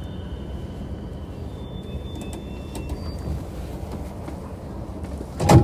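Inside a JR East E233-7000 series motor car slowing at a station: a steady low rumble, with faint high whines from the traction equipment dying away within the first second. Right at the end the doors start to open with a sudden loud rush.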